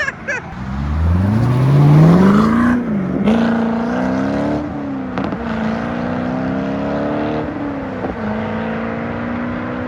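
A car engine accelerating hard. The revs climb steeply over about two seconds, dip sharply near three seconds in as it shifts up, and then hold high and fairly steady, with brief dips for further shifts.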